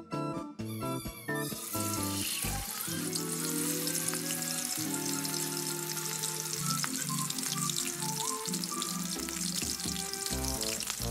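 Whole shrimp frying in hot, bubbling fat in a pan, a dense sizzle that starts about a second and a half in and carries on steadily.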